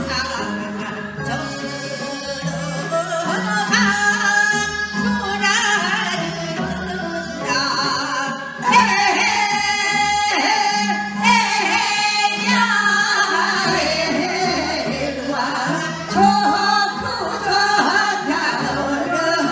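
Gyeonggi folk song (gyeonggi minyo): women's voices singing over instrumental accompaniment, with a steady low beat.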